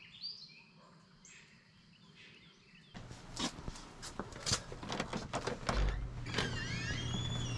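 Faint birds chirping. About three seconds in, a run of sharp clicks and knocks starts over a low steady hum, and bird calls return near the end.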